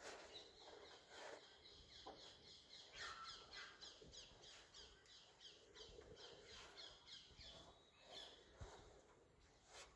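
A bird calling in a fast run of short, high chirps, about four or five a second, starting about three seconds in and stopping near the end; faint outdoor background around it.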